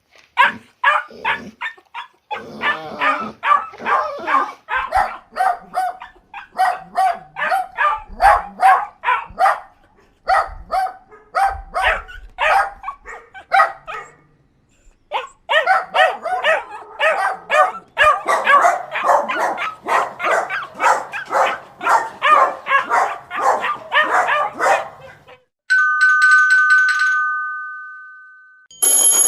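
A dog barking rapidly and repeatedly, about three barks a second, with a short pause partway through. Near the end a high electronic two-tone trill sounds for about three seconds.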